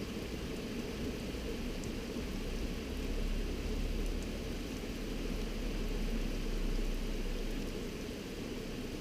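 Steady heavy rain hissing from a thunderstorm, with a deep low rumble that swells from about three seconds in and fades near the end.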